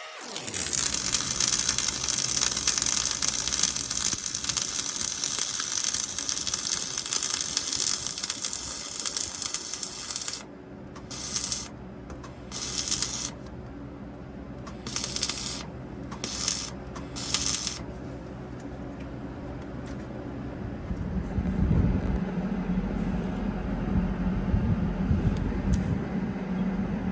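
Arc welding across the crossmember joint of a CAT 637 scraper's rear frame, run onto runoff plates: a steady hiss for about ten seconds, then several short arc bursts with pauses between them. A low engine-like rumble comes in about three quarters of the way through.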